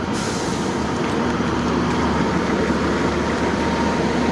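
A pair of Class 150 diesel multiple units running while they stand at the platform: an even, steady drone with a faint high whine.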